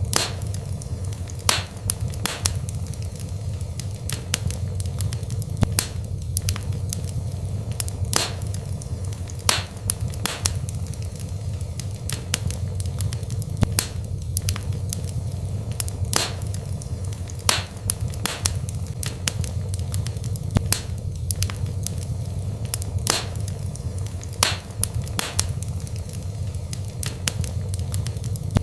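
Burning wood fire: a steady low rumble of the flames with frequent sharp crackles and pops at irregular intervals.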